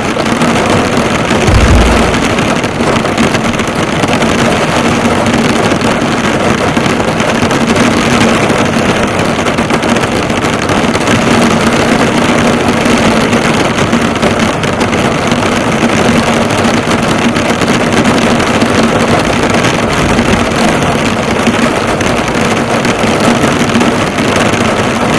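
Heavy rain drumming steadily on a car's hood and body, a dense, even patter with a faint steady hum underneath. A brief low thump comes about two seconds in.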